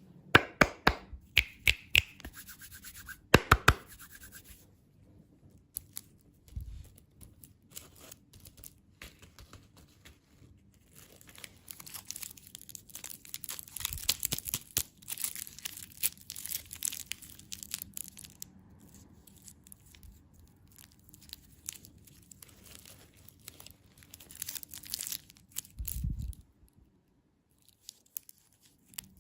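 Plastic packaging being crinkled and torn open, in dense crackling stretches, after a run of sharp clicks and taps in the first few seconds. A dull thud comes near the end.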